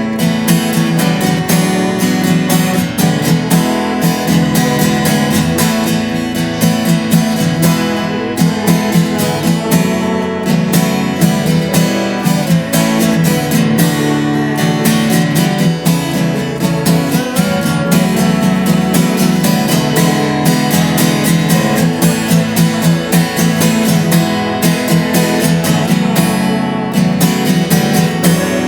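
Worship song led by a strummed acoustic guitar, with a steady, even strumming rhythm.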